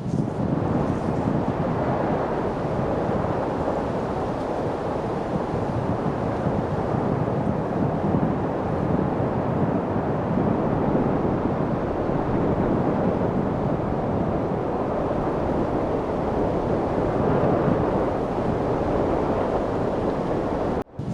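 Steady rushing wind, an even, unbroken noise that cuts out for an instant near the end.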